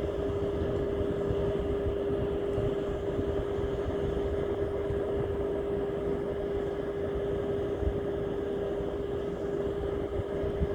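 An engine running steadily: one constant humming tone over a low rumble.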